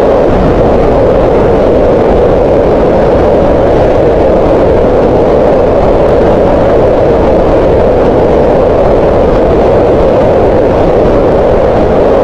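Green noise: a steady, unbroken hiss whose energy is centred in a band around 500 Hz, with little in the high treble.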